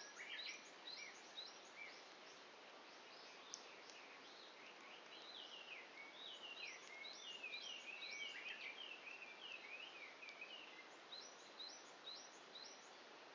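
Birds chirping and singing: many short, quickly falling notes, thickest through the middle, over a faint steady hiss.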